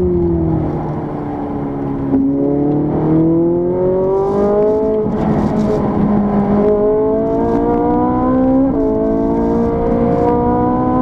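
Ferrari 458 Italia's 4.5-litre V8 engine, heard from inside the cabin. Its pitch falls for the first couple of seconds under braking, then climbs again as the car accelerates hard. The climb is broken by gear changes, with a sharp drop in pitch near the end.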